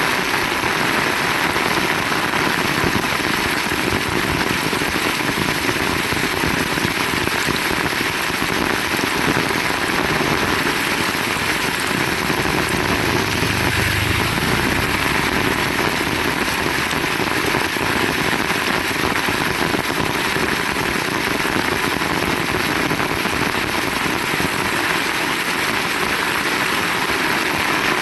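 Heavy rain pouring steadily, with a brief low rumble about halfway through.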